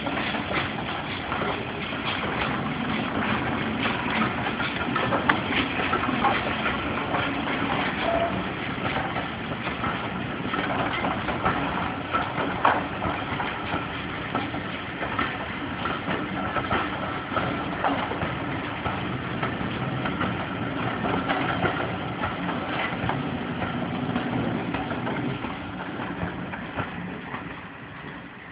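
Steam-hauled passenger train pulling away past, its coaches' wheels clattering over the rail joints with the locomotive working ahead. The sound fades near the end as the train draws away.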